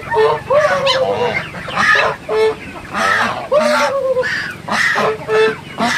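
A flock of laying ducks calling loudly, many short calls overlapping, several each second.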